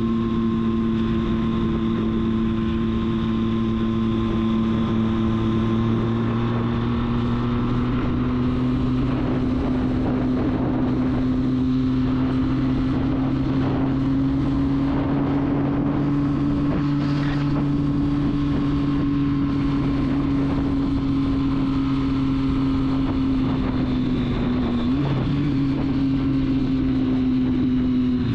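Triumph Street Triple's three-cylinder engine running at a steady cruise with wind rushing past, its note rising slightly through the first half, shifting briefly about 25 seconds in, and starting to drop right at the end.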